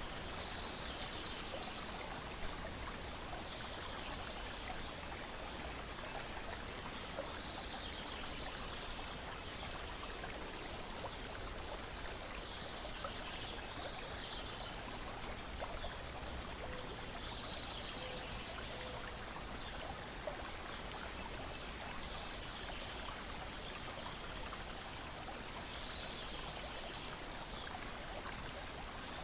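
Water lapping and trickling in a steady, even wash. A bird's short song phrases repeat every few seconds over it, and there are a few faint crackles from a wood fire.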